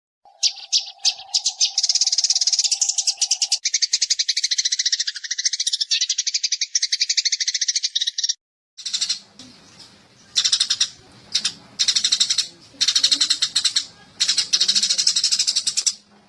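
Eurasian tree sparrows chattering in a rapid, dense run of high chirps for about eight seconds. A steady lower tone sits under the first few seconds. After a brief break, the chirps come back in short bursts over a low hum.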